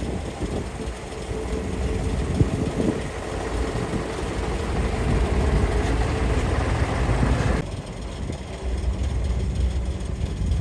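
Excavator's diesel engine and hydraulics working under load, a steady rumble with a whine and a hiss. About seven and a half seconds in, the whine and hiss cut off suddenly and the engine rumbles on more quietly.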